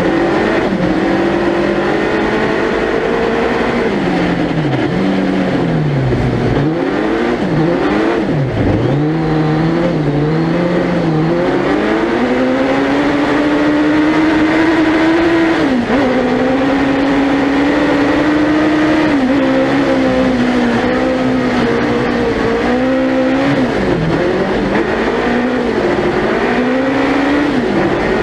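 Suzuki Hayabusa 1300cc motorcycle engine in a four-wheel-drive prototype ice-racing car, heard onboard as the driver laps: revs rise and fall repeatedly through gear changes and lifts for corners, with longer stretches held at steady revs between them.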